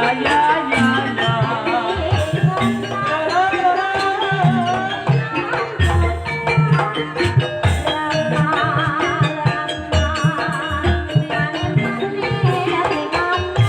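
Banyumas gamelan music in campursari style: hand drums beating a busy rhythm of low strokes under a wavering sung melody, with sharp struck accents throughout.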